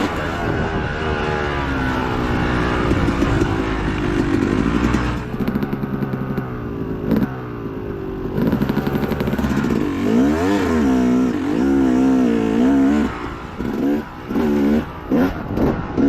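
Dirt bike engine racing over rough off-road terrain, its pitch rising and falling again and again with the throttle, with several quick throttle chops near the end.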